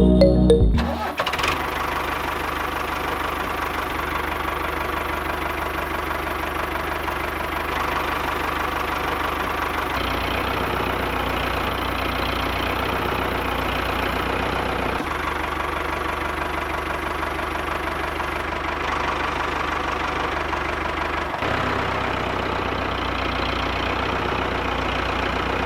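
Mini diesel engine running steadily at an even speed, after music cuts off about a second in.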